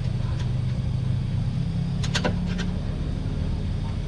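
Parts and tools being handled during the radiator job: a light click early on and a short clatter of sharp clicks about two seconds in, over a steady low hum.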